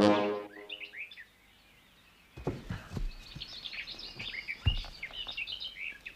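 Birds chirping in short high calls, with a few dull thumps and rustles in between. A brass chord dies away at the very start.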